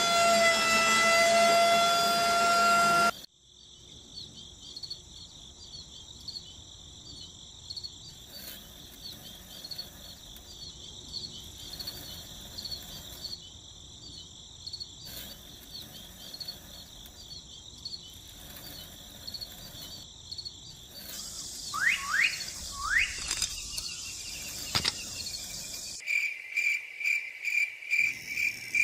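Crickets and other insects chirping in a steady high trill, which changes to a slower pulsing chirp near the end, with a few short rising bird chirps partway through. At the very start a held pitched tone with several overtones sounds for about three seconds and cuts off suddenly.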